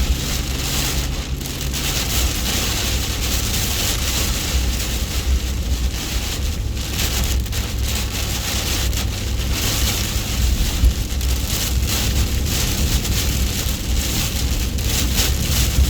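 Heavy rain pounding on a pickup truck's roof and windshield, heard from inside the cab, over a steady low rumble from the truck.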